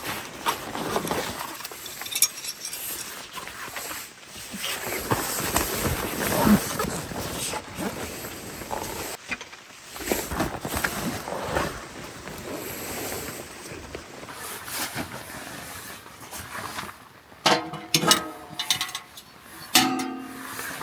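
Rustling and knocking of camping gear being handled at close range, with a cluster of louder, sharper clatters and brief pitched scrapes near the end.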